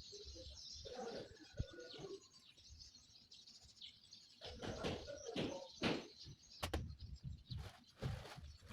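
Birds chirping, with a dove cooing low near the start. Several short knocks come in the middle, about a second apart.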